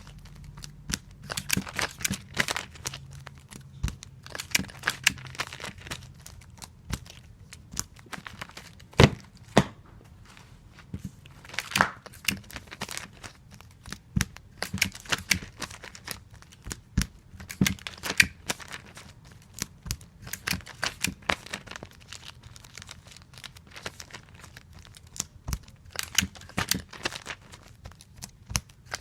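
Adhesive tape being pulled off a tape dispenser and torn off on its cutter, over and over, with crinkling and handling noises as comic books are taped. It comes as an uneven run of short rasps, crackles and clicks, with a few sharper knocks.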